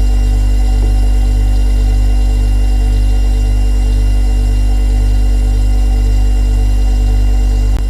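Refrigerator running: a steady low hum with a slight pulsing and several faint steady whining tones above it. A brief click and dip in level come near the end.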